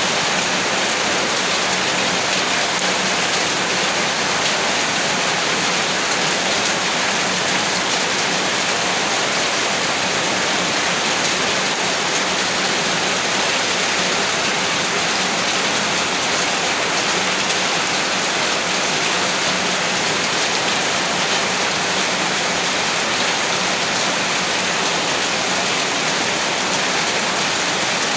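Heavy rain falling steadily, a dense, even hiss of many drops with no breaks or thunder.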